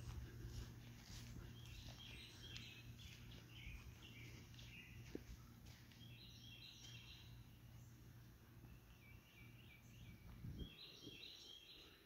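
Faint bird song: short runs of quick, high chirping notes, repeated three or four times, over a low steady hum.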